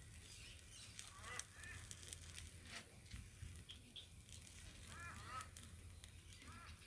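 Near silence with faint bird calls in the background: a few short, arched honking cries, in small groups about a second and a half in, around five seconds in, and near the end.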